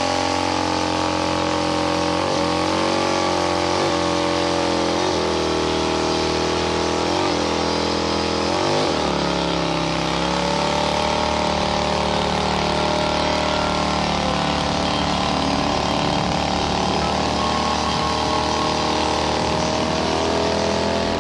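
Motorcycle engine held at high revs in a burnout, a steady high-pitched drone whose pitch dips and recovers about once a second for the first nine seconds, then holds steady.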